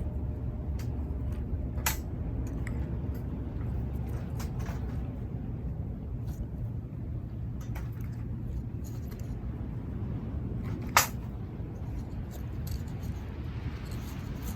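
Wood campfire crackling, with scattered sharp pops, the loudest about two seconds in and about eleven seconds in, over a steady low rumble.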